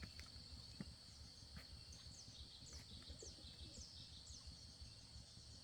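Faint rural ambience: a steady high insect trill, with a small bird giving a run of about six short, falling chirps in the middle.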